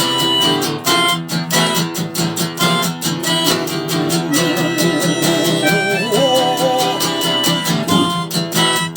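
Live band playing an instrumental passage between verses: quick, even strumming on guitar, with a wavering melody line over it for a few seconds in the middle.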